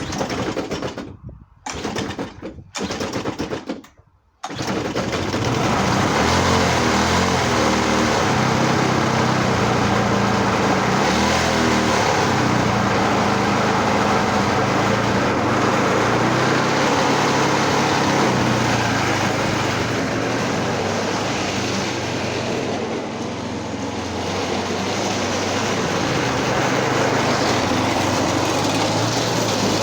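Small four-stroke lawnmower engine, mounted upright on a reel mower, being pull-started: a few short pulls of the recoil cord, then it catches about four seconds in and runs steadily.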